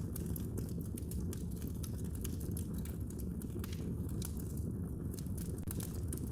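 Wood fire burning in a fireplace, crackling with many irregular sharp pops over a steady low rumble of the flames.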